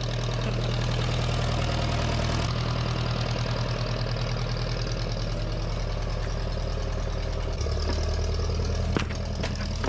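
Case 420B's spark-ignition engine running steadily, newly started after a distributor repair. Its note changes twice as the machine is worked, and two sharp clicks come near the end.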